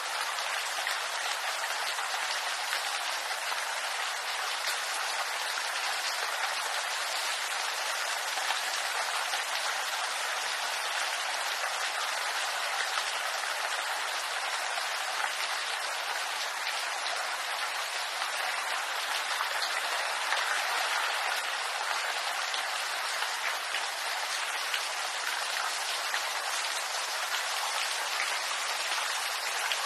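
Steady rain falling on bamboo leaves: an even, dense patter of drops with no separate louder hits and little low rumble.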